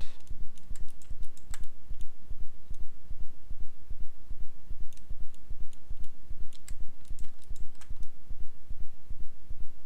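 Scattered computer mouse clicks and keyboard keystrokes, over a low rumble that pulses about four times a second.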